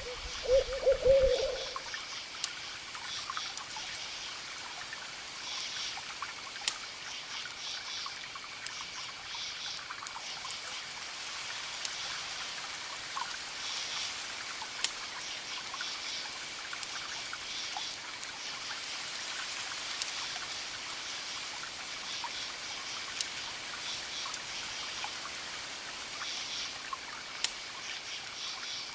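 Crickets chirping in repeated pulsed groups over the crackle of a campfire, with scattered sharp pops. A brief low pitched call, the loudest sound, at the very start.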